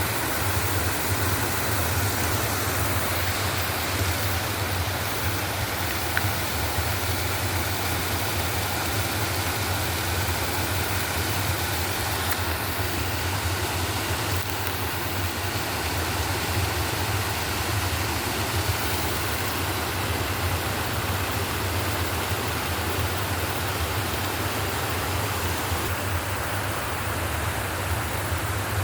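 Waterfall rushing, a steady unbroken roar of falling water with a deep low rumble.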